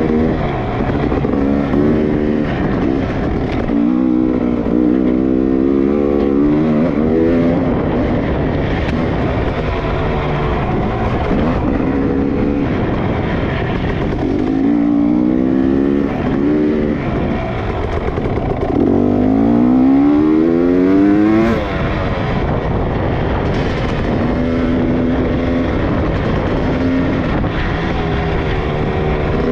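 Dirt bike engine running hard, its pitch climbing and falling again and again as it accelerates and lets off, over a steady rushing noise. A long climb about two-thirds of the way through ends abruptly.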